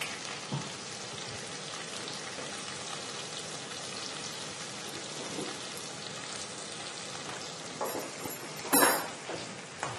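Tomato paste frying in oil in a skillet, a steady sizzle. A brief louder sound breaks in near the end.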